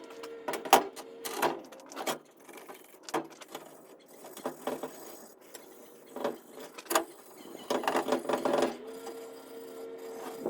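Steel-wool pad scrubbing rust off a metal roll bar tube in irregular scratchy strokes, with a longer run of strokes near the end, over a steady low hum.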